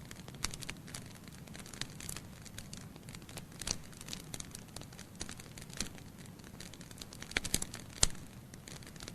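Logs burning in a fireplace, crackling with irregular small pops over a steady low rumble of the flames. A few sharper snaps come about a third of the way in and near the end.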